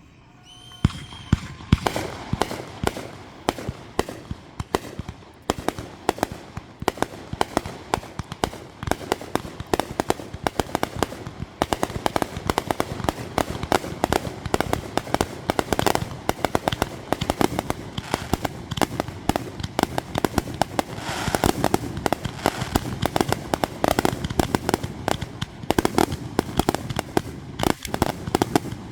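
Fireworks going off in a rapid, continuous barrage of bangs and crackling that starts about a second in.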